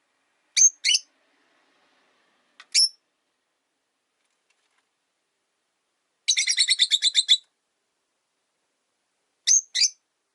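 Rosy-faced lovebirds chirping: two short high chirps, then a single one, then a fast run of about ten chattering notes, and another pair of chirps near the end.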